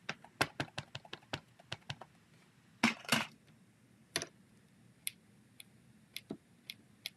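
Rapid light tapping and clicking of stamping supplies on a craft table: a quick run of about six taps a second for the first two seconds, a brief scrape about three seconds in, then a few single clicks.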